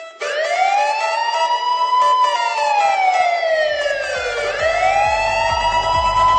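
Emergency vehicle siren in a slow wail, its pitch rising and falling about once every four seconds. A low vehicle rumble comes in about halfway through.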